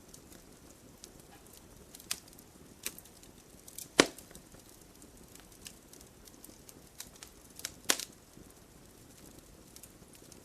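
Wood fire burning in a fireplace, crackling with scattered small pops over a low steady rumble, and two louder snaps about four seconds in and just before eight seconds.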